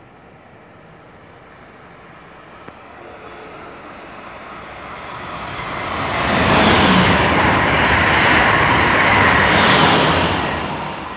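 Amtrak Acela Express high-speed trainset passing at speed: a rushing noise that builds as it approaches, stays loud for about four seconds as it goes by, then drops away near the end.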